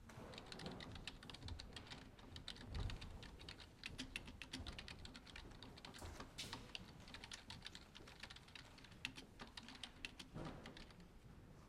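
Quiet typing on a computer keyboard: a continuous, irregular run of keystrokes.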